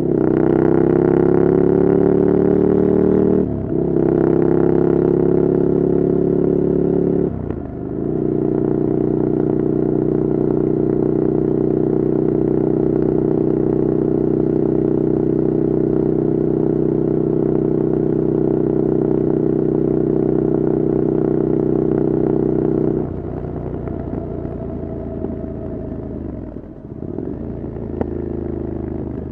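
Ducati Scrambler Desert Sled's air-cooled L-twin running through an open LeoVince exhaust with no dB killer, heard while riding. It pulls up through the gears, with a short dip at each upshift about three and a half and seven and a half seconds in, then holds a steady cruise. About twenty-three seconds in it backs off the throttle to a lower, quieter note, with a couple more brief dips near the end.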